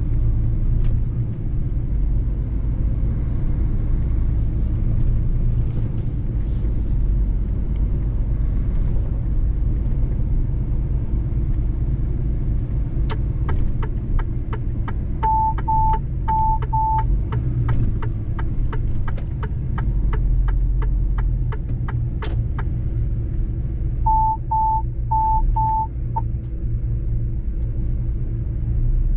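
Mercedes-Benz truck driving on the road, a steady low engine and road rumble. About halfway through, an even ticking runs for several seconds, and twice a run of four short high beeps sounds.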